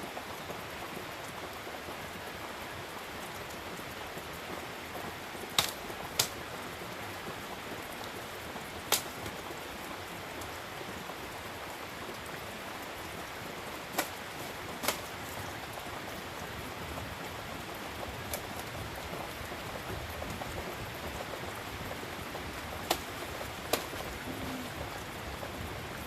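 Steady rain falling, with about seven sharp clicks or knocks scattered over it.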